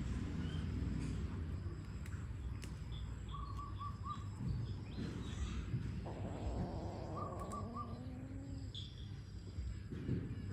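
Outdoor ambience with a steady low rumble, over which a bird twice repeats a short call of three or four quick notes, about four seconds apart, among other faint chirps.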